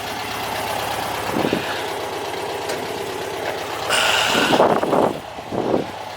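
A vehicle engine running steadily, with a brief loud scraping or clattering noise about four seconds in and a couple of short knocks after it.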